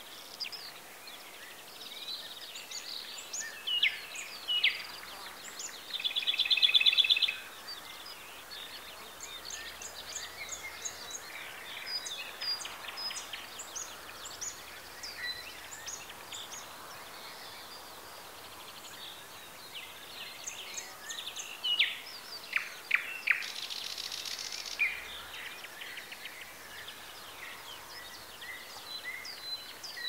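Several wild birds calling and singing in short chirps and trills over a faint steady hiss of open country. The loudest is a harsh, buzzing call held for about a second and a half, about six seconds in. A busier cluster of calls comes about four-fifths of the way through.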